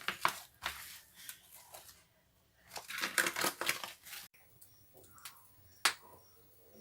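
Rustling and crinkling in bursts, like something being handled, for about four seconds. Then a quieter stretch with faint, evenly repeated high chirps and one sharp click near the end.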